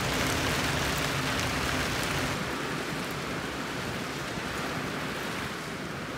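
Storm rain and wind beating on the windows and door, heard from inside the room as a steady hiss that eases slightly a few seconds in.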